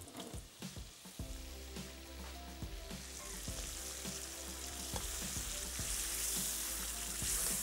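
Goat meat and fried masala, with freshly added yogurt, sizzling in a wok over a gas flame; the sizzle grows louder about three seconds in.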